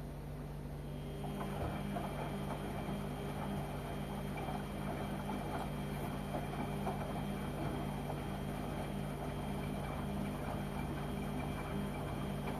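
LG washing machine running: a steady low hum, joined about a second in by a motor whine and the noise of the turning drum, which stop near the end.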